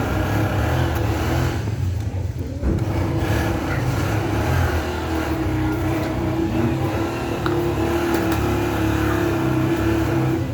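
A motor vehicle's engine running steadily, a constant low hum with a steady tone above it.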